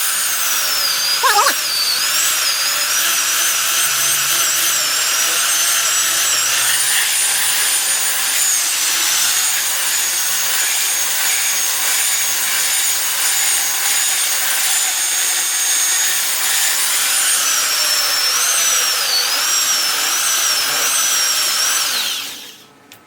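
Electric power tool cutting into wood: a steady loud rasping hiss with a high whine that wavers as the load changes. It cuts off sharply near the end.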